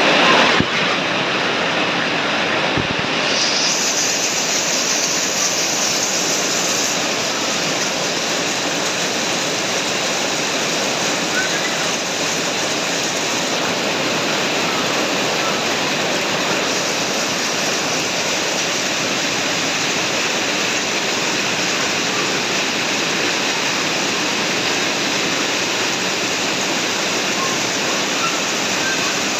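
Heavy rain falling steadily in a rainstorm, an even, unbroken downpour.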